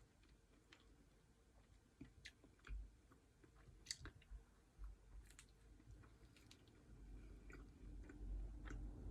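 Faint close-up chewing of pizza, with scattered small mouth clicks and smacks.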